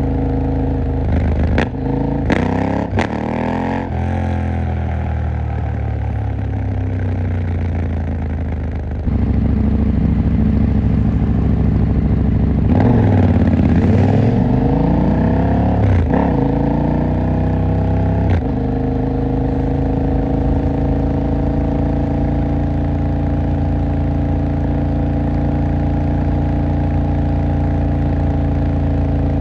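KTM 890 Duke R's parallel-twin engine being ridden through traffic. Revs swing down and up with a few sharp clicks early on, then fall and climb again about halfway through, before the engine settles into a steady note for the last ten seconds.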